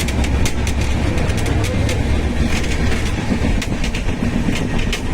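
Train rolling along the track: a steady low rumble of wheels on rails with many sharp, irregular clicks.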